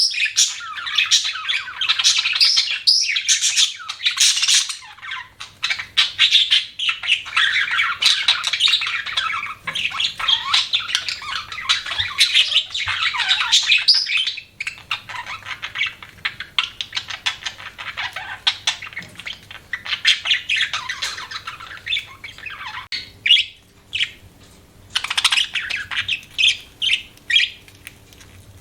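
Budgerigars chattering and warbling: a dense stream of chirps for about the first half, then sparser, separate chirps and squawks.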